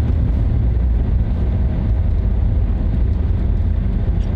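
Truck driving along a road: a steady low rumble of engine and road noise.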